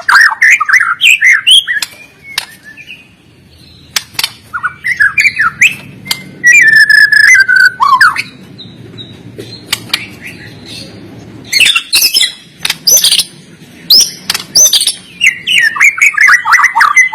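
White-rumped shama singing in loud, rapid phrases of varied whistled notes, trills and sharp clicks, with short pauses between phrases.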